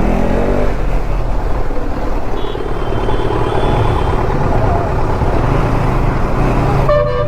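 Motorcycle engine running steadily at road speed among traffic, heard from the moving bike.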